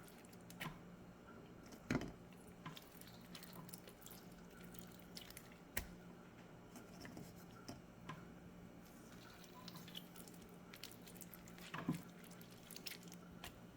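Lemons squeezed by hand over raw chicken feet in a bowl: faint, scattered drips and squelches of juice falling, over a steady low hum.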